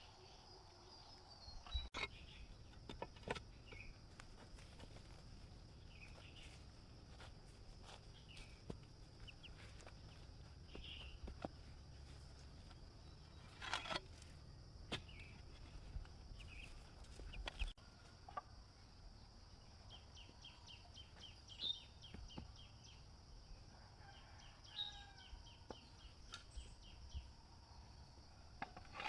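Faint rural outdoor ambience: a steady high insect drone with chickens and other birds calling in short chirps and trills, and a few sharp knocks and taps scattered through.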